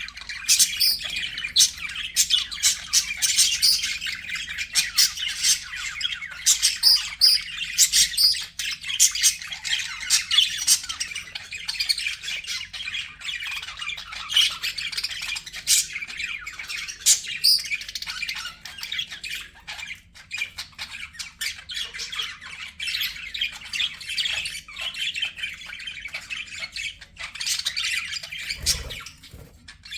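Budgerigars chattering, with rapid chirps and squawks that overlap without a break. A brief low thump comes near the end.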